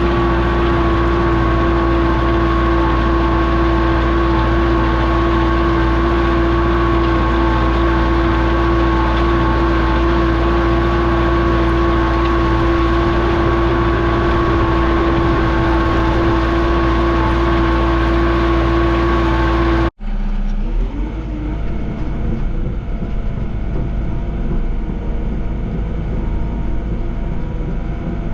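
Diesel heavy equipment engine running steadily, with a strong steady whine over it. About two-thirds of the way through it cuts off abruptly into a different, somewhat quieter engine sound.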